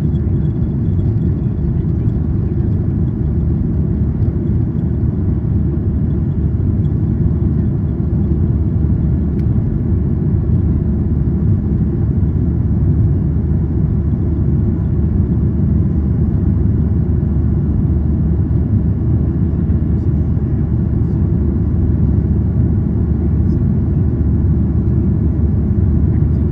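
Steady low rumble of a Boeing 737-800's CFM56-7B turbofan engines and rushing air, heard inside the cabin as the airliner climbs after takeoff.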